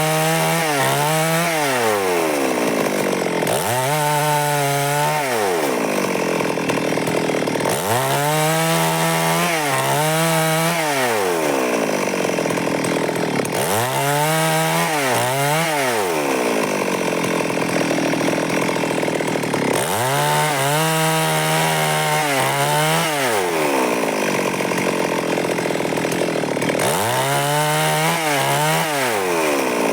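Stihl MS382 two-stroke chainsaw cutting wood lengthwise into boards. The engine's pitch rises, holds, then drops back about every five to six seconds as it works along the cut.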